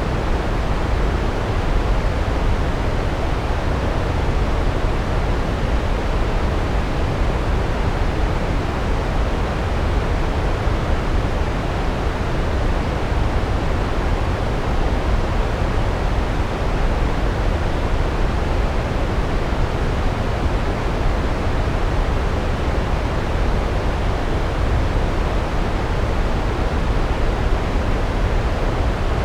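Large waterfall, a steady loud rush of falling water, deepest in the low end, with no breaks or distinct splashes.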